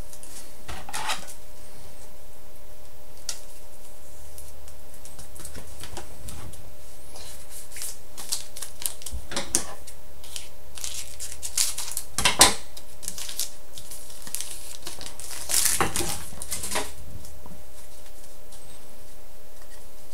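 A foil trading-card pack being torn open and its cards handled: scattered crinkles, rustles and sharp little clicks of wrapper and card stock. The louder handling comes about twelve seconds in and again around sixteen seconds.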